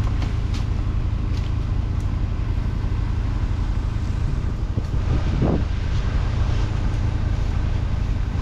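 Grapple truck's engine running steadily with a low rumble. A few faint clicks come early, and there is a short rising-and-falling pitched sound about five seconds in.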